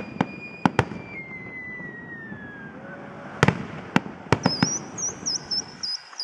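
Fireworks display: sharp bangs, a few in the first second and a quick run of them from about three and a half seconds on. A thin whistle slides down in pitch in the middle, and a high, wavering whistle repeats several times a second near the end.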